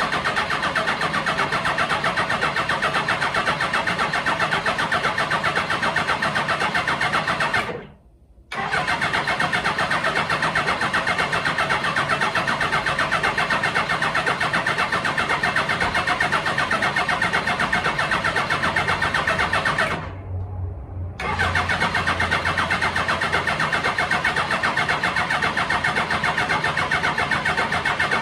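Suzuki GS1000G's inline four-cylinder engine being turned over on its electric starter, with a bit of choke and no exhaust fitted, in three long bouts of even, rhythmic cranking with short breaks about eight and twenty seconds in. The engine does not start.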